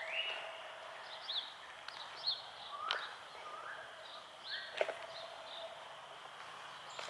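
Several wild songbirds chirping and calling in short rising notes, with a faint steady hum underneath and a few sharp ticks about three and five seconds in.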